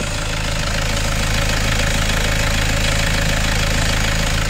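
Toyota Innova Reborn engine idling steadily, heard close up under the open hood, with the air conditioning running while R134a refrigerant is charged into it through the low-pressure service port.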